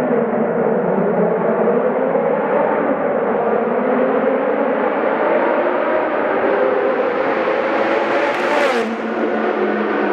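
Ferrari F430 V8 running through cat-delete straight pipes, pulling hard with its pitch climbing slowly, then falling suddenly near the end.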